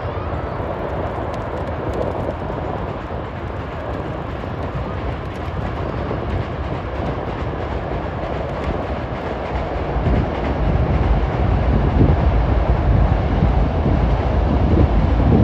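Hankyu electric train crossing a steel railway bridge over the river: a steady rail rumble that grows louder in the second half.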